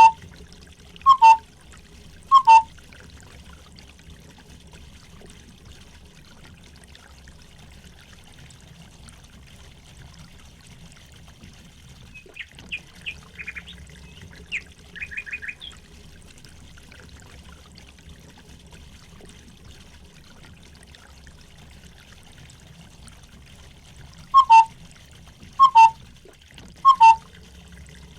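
Water trickling steadily, with a bird's quick high chirps in the middle. A loud short call sounds three times about a second apart at the start and again three times near the end.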